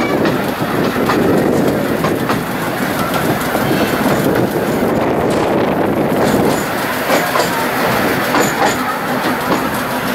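Narrow-gauge train running along the track: a steady rumble with wheels clicking over the rail joints.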